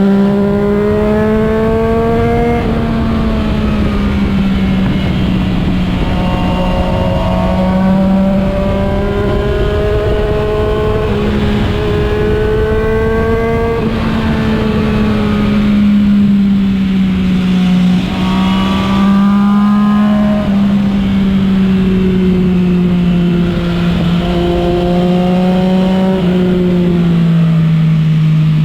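Motorcycle engine running under way, its pitch climbing and then dropping again and again as it accelerates and shifts gear.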